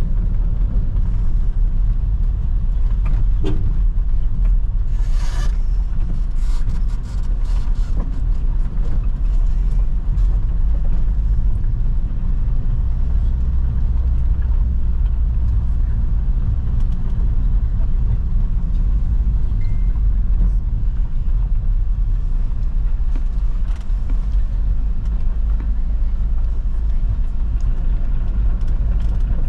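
Steady low rumble of a vehicle being driven, engine and road noise, with a few brief clicks and rattles about five to eight seconds in.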